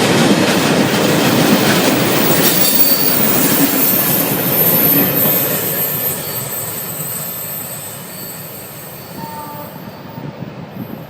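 Freight train rolling past on the rails, with a high, steady squeal from its wheels over the rumble. The noise fades from about six seconds in as the train moves away.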